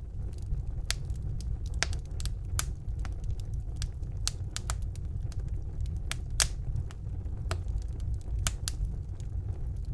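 Wood fire burning in a fireplace: a steady low rumble of the flames with frequent sharp crackles and pops, one louder pop about six seconds in.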